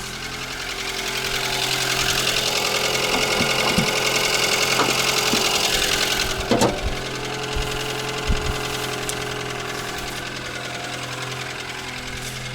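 Car engine running, growing louder for a few seconds and then settling back, with a few separate sharp knocks over the steady running.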